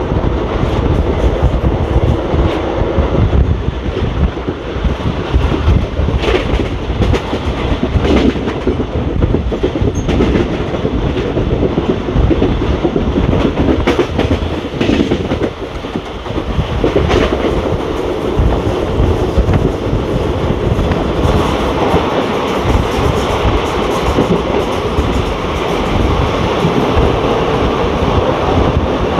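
ICF passenger coach running along the track: a steady rumble of wheels on rail, with sharp clickety-clack clicks as the wheels pass over rail joints.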